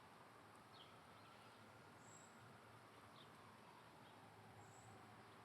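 Near silence: faint outdoor background hiss with a few faint, short, high bird chirps.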